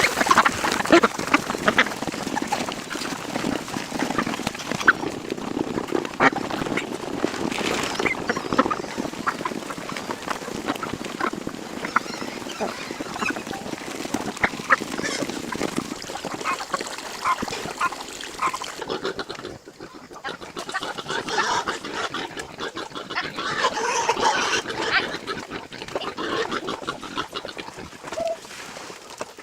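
A flock of farm poultry calling continuously, with many overlapping short calls, busier in the first half and thinning out after a brief lull about two-thirds of the way through.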